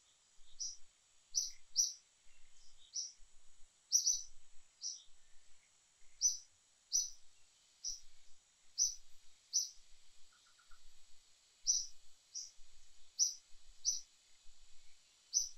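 A bird chirping repeatedly, short high chirps about one to two a second, over a steady high-pitched hiss of outdoor ambience.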